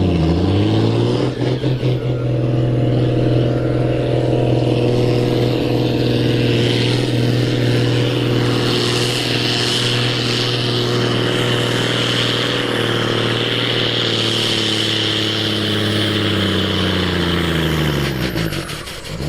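An Ursus tractor's diesel engine pulling under full load. The revs climb in the first second, hold steady at high speed, then fall away near the end as the pull finishes.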